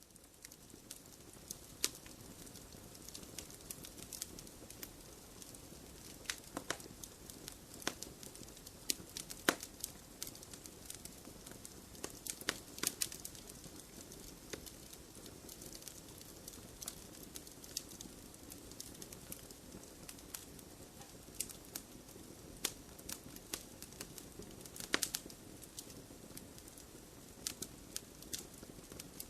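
Wood fire crackling in a fireplace: a steady low hiss with frequent irregular sharp pops and snaps of burning wood.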